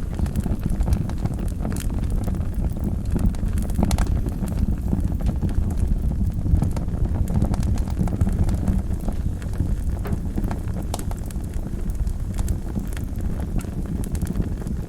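Wood fire burning in a fireplace: a steady low rumble of flames with irregular small crackles and pops of burning logs.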